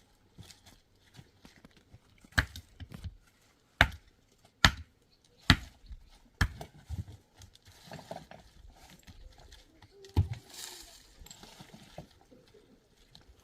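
Stones knocking against stone: about six sharp, irregularly spaced clacks over several seconds during stone-and-mud wall building.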